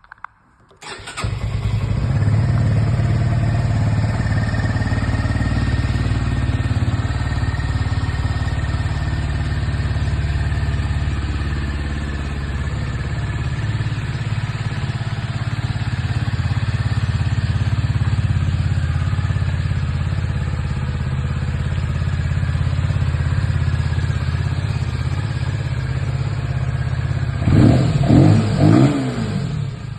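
Voge R 125's 125cc single-cylinder engine starting about a second in after a brief click of the starter, then idling steadily. Near the end it is blipped two or three times in quick succession and drops back to idle.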